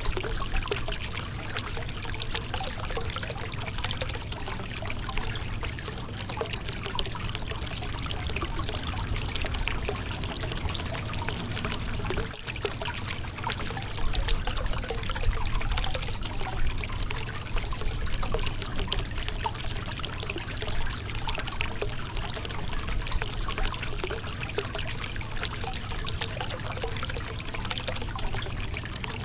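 Shallow river water running and trickling over rocks in a steady, dense splashing rush.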